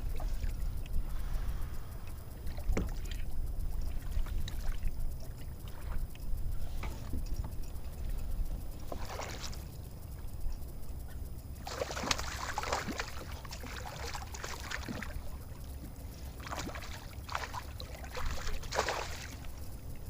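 Water splashing and sloshing against a fishing kayak in several noisy bursts, the longest in the second half, over a steady low rumble.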